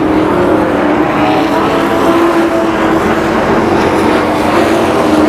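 Engines of a field of oval-track race trucks running at speed, several steady engine tones sounding together over the noise of the pack.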